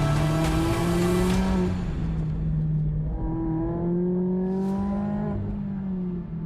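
Car engine accelerating hard, its pitch climbing steadily, then dropping about two seconds in. It climbs again through the middle and drops again near the end, the pattern of a car pulling through its gears.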